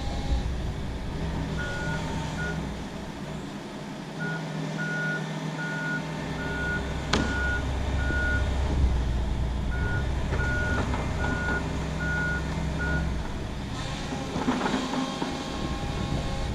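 John Deere 135 excavator with its diesel engine working under load and its travel alarm beeping in three runs of short, evenly spaced beeps. There is a single sharp knock about seven seconds in.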